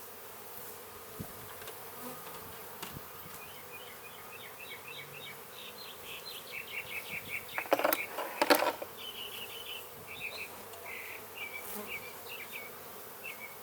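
Honeybees buzzing around an open hive in a steady hum. A few sharp knocks come about eight seconds in, and quick high chirping notes run over the hum from about four seconds on.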